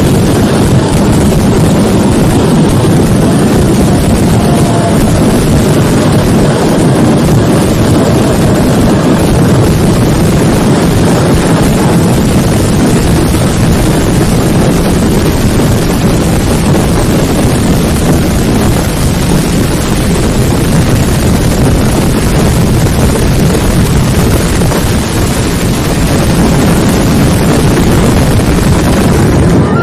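A fireworks barrage so dense that the bangs run together into one continuous, loud rumble with no let-up.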